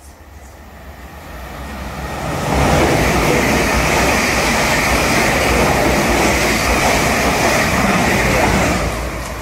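Two coupled Class 444 electric multiple units running through the station without stopping. The noise of wheels on rail builds over about two seconds, holds loud and steady as the coaches go by, then falls away near the end.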